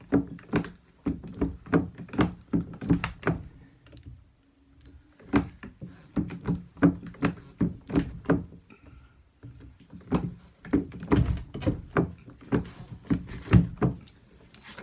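Hand-cranked jeweller's rolling mill being turned to roll 14k gold wire into a flat bezel strip: a rapid series of clunks, about three or four a second, in three runs with short pauses between them.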